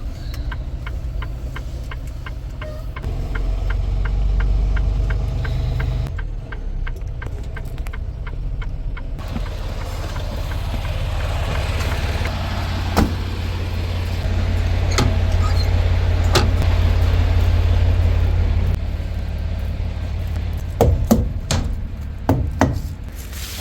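Semi truck's diesel engine running, heard from the cab, a steady low rumble that swells twice as it works. An even ticking, about three a second, runs for the first six seconds, and a few sharp knocks come near the end.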